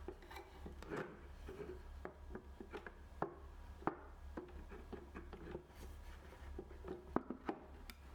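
Light wooden knocks and clicks as a glued oak chair leg is handled and pushed back onto its dowel joints, with the sharpest knocks about four seconds in and about seven seconds in.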